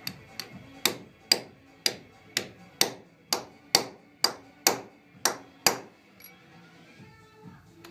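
A run of about a dozen sharp, hammer-like knocks at an even pace of roughly two a second, each ringing briefly. They stop about six seconds in.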